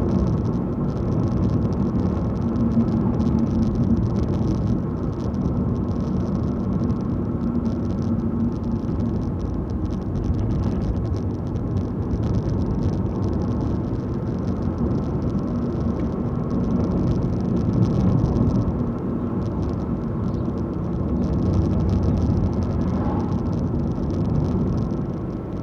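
Steady engine and road noise of a car driving along, heard from inside the cabin, swelling a little about two-thirds of the way through.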